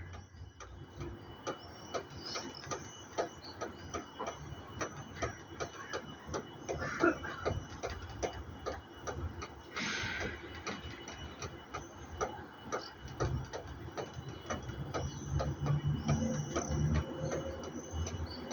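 Many birds chirping in the evening, a dense run of short, sharp calls a few a second, with a thin steady high tone underneath. A low hum comes in about two-thirds of the way through.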